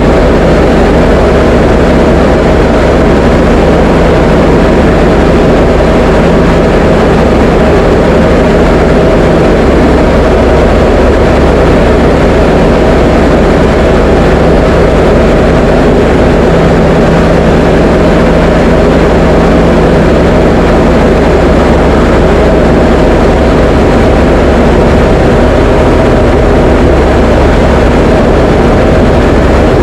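Diamond DA20 light aircraft's piston engine and propeller running steadily in flight: a loud, even drone with a low hum that holds at one pitch throughout.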